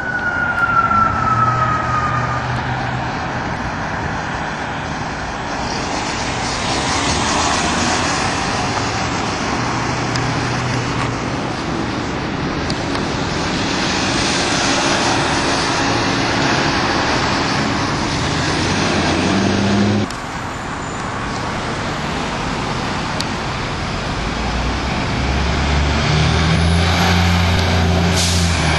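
A fire engine and an ambulance responding under sirens, their diesel engines revving up as they pull away; a siren tone falls in pitch at the very start. The sound cuts abruptly about twenty seconds in, and engine noise builds again near the end.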